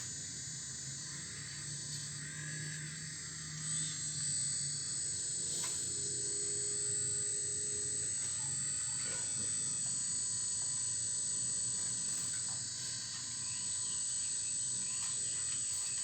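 Radio-controlled model excavator working, its motor whining steadily with a low hum beneath, and a few sharp clicks and knocks as the metal bucket digs into rock and soil.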